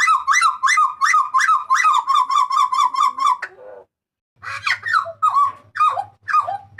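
Butcherbird (jagal papua) giving a loud, fast run of repeated ringing notes, about five a second, that trails off after about three and a half seconds. After a short pause it gives a few separate downward-sliding notes.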